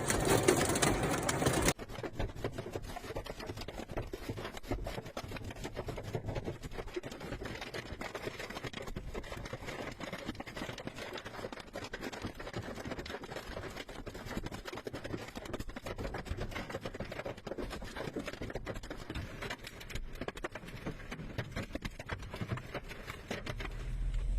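Hail pelting down: a dense, irregular patter of many stones striking hard surfaces. A louder rush of noise cuts off abruptly about two seconds in.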